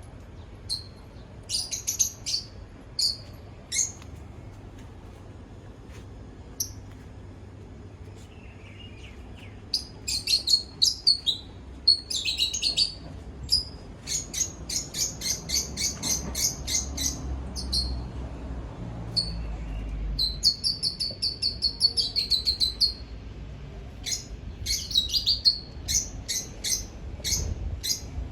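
A small bird chirping and twittering in high, short notes. There are a few scattered chirps at first, then a quieter stretch, then long runs of quick repeated chirps from about ten seconds in.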